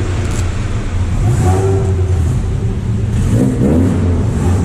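A vehicle engine running, with its pitch rising and falling as it is revved about three seconds in.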